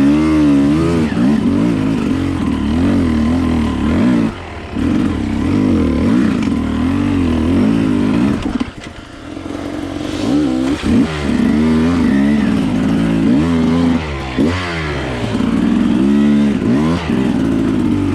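Enduro dirt bike engine heard from on board, revs rising and falling constantly as the throttle is worked over trail terrain. The engine briefly drops off about four seconds in and again around nine seconds in, as the throttle is shut.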